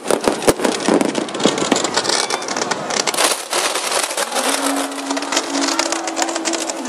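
Fireworks crackling: a dense, rapid patter of small pops, with a couple of sharper bangs at the start. From about four seconds in, a steady low tone joins the crackle.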